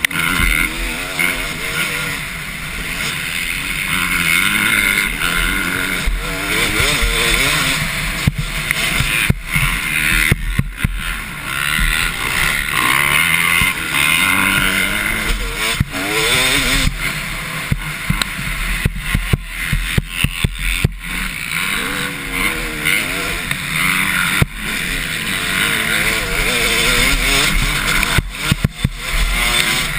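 Several motocross bikes racing, their engines revving up and down in pitch as they accelerate and shift.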